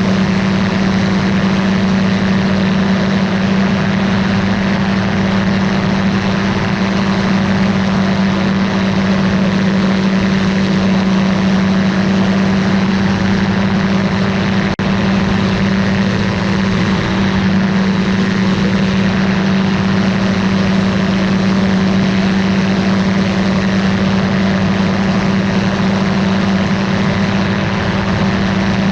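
Ultralight aircraft's engine and propeller running at steady power, a constant drone with a strong low hum and a haze of airflow noise that does not change in pitch.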